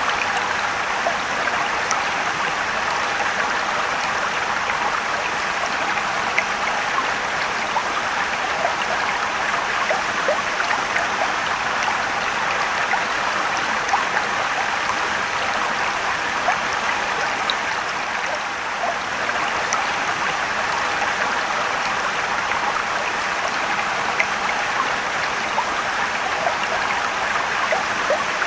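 Mountain stream rushing and trickling over rocks: a steady dense splashing with small droplet clicks throughout.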